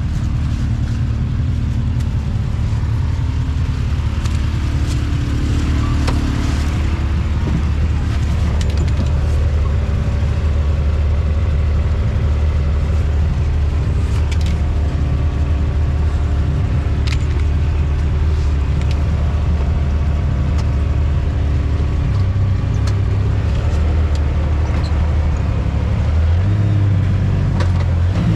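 Off-road vehicle's engine running at low speed with a steady drone, rising in pitch a few seconds before the end as it picks up revs. Scattered sharp knocks and rattles as the vehicle creeps over a bridge deck of plank boards.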